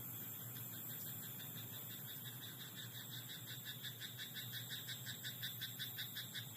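A frog croaking: a long run of quick, evenly spaced pulses, about six a second, growing louder toward the end before it stops.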